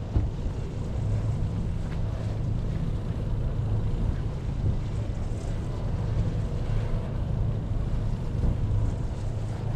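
Hyundai Santa Fe SUV idling, its engine a steady low hum, with wind buffeting the microphone.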